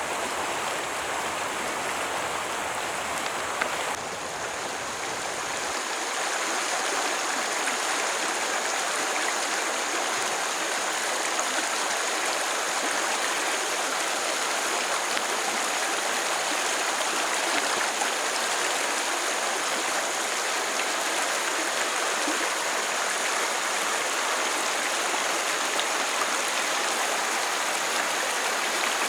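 Steady rush of flowing stream water. A faint low rumble underneath drops away about six seconds in.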